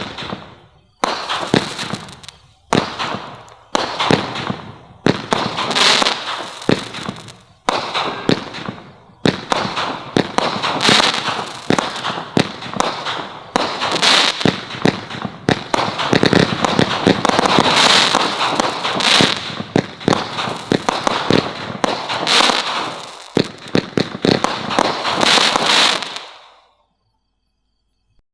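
Consumer fireworks from a Brothers Pyrotechnics assortment firing: a string of sharp shots and bursts, each with a crackling tail, about one every second or so at first, then coming thick and fast, ending about 26 seconds in.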